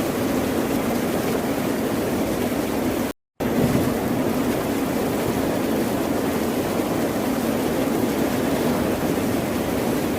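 Steady, unbroken noise of ocean surf, with no separate wave breaks standing out. A little over three seconds in, the sound cuts out completely for about a quarter of a second and then comes straight back, like an edit splice in the recording.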